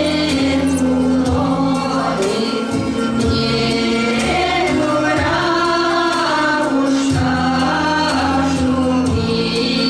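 Folk ensemble singing a Russian folk song in chorus over steady, sustained low instrumental accompaniment.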